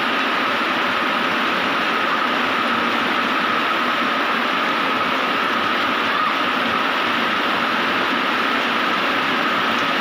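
Rain falling steadily, an even rushing hiss with no breaks, with a faint thin steady tone running through it.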